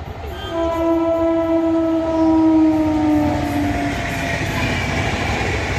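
Express train passing at speed with its horn sounding for about three seconds, the pitch sagging slightly as it goes by, followed by the loud rush of the train running past.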